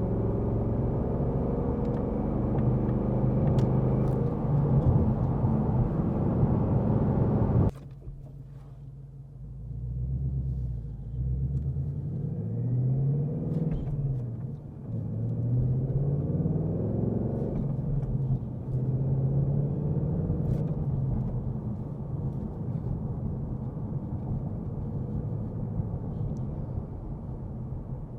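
2026 Mustang GT's 5.0-litre V8 running steadily under way, dropping off suddenly about eight seconds in. It then rises and falls in pitch several times as the car accelerates and shifts, and settles to a steady cruise near the end.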